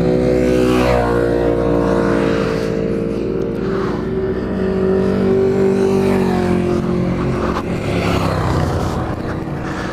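Sport motorcycle engines running hard as a group of bikes rides past one after another, the engine note stepping up and down in pitch with the throttle.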